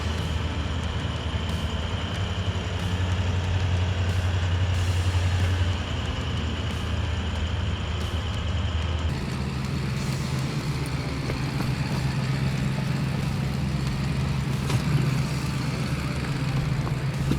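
Four-wheel-drive engine running steadily under way, its drone stepping up in pitch about nine seconds in.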